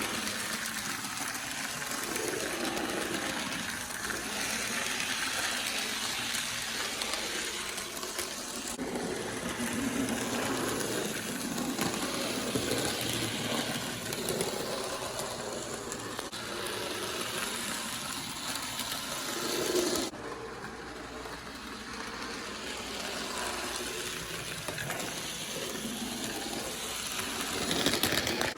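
HO-scale Bachmann Thomas the Tank Engine model locomotive running on track, its small electric motor whirring and its wheels rattling along the rails as it pulls a tank car. The sound drops suddenly about 20 seconds in, then builds again.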